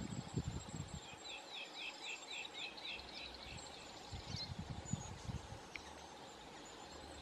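A bird calling in the background: a quick run of about nine similar chirps, roughly four a second, with a thin high note early on, over faint low rumbling outdoor noise.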